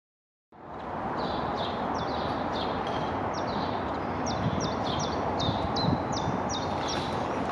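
A small bird chirping over and over, short high falling notes about two or three a second, over steady outdoor background noise that cuts in about half a second in.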